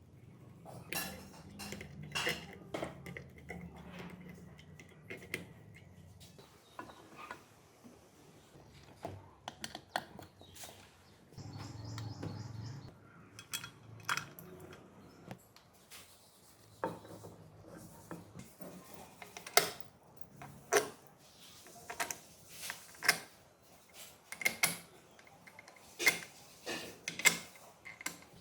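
Irregular metallic clinks and taps of tools and metal parts being handled by hand, with a low hum through the first few seconds and again about twelve seconds in.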